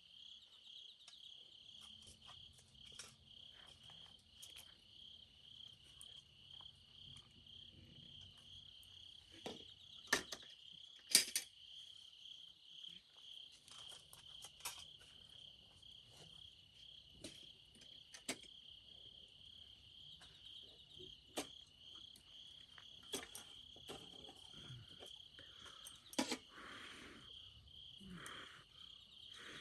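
Crickets chirping steadily in an even, pulsing chorus at one high pitch, with scattered sharp pops and crackles from a campfire, the loudest about ten and eleven seconds in.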